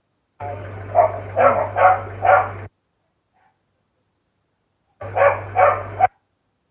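A dog barking in two short runs, four barks and then three, about half a second apart. Each run comes with a low hum that starts and stops abruptly along with it.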